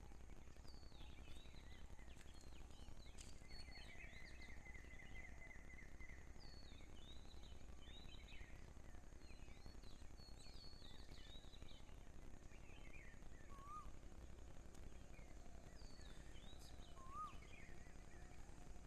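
Faint chirps and calls of small birds, with a rapid trill about four seconds in and a few short whistled notes later, over a quiet steady low background noise.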